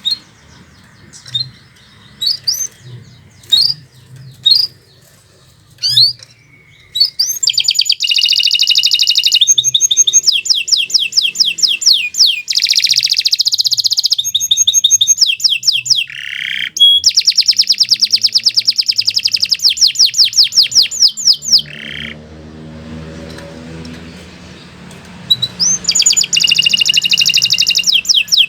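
Domestic canary singing: a few scattered short chirps, then long, very fast trills and rolls of high notes. About three-quarters of the way through the song breaks off for a few seconds of faint low background noise before the trilling resumes.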